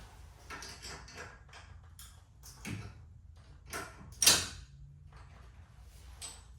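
Scattered metal clicks and clanks of hand tools loosening the set screws on a garage door torsion-spring cable drum, with one sharp, louder clank about four seconds in.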